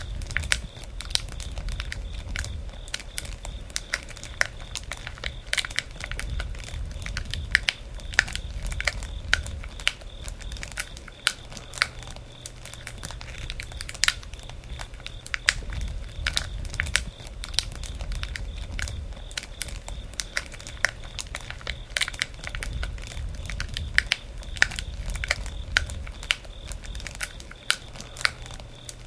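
Wood campfire crackling: irregular sharp pops and snaps, several a second, over a low steady rumble of the burning fire.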